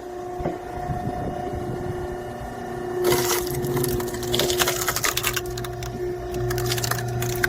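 Hydraulic log splitter's electric motor and pump humming steadily while, from about three seconds in, a log cracks and splinters in a rapid run of sharp cracks as the ram forces it through the splitting wedge.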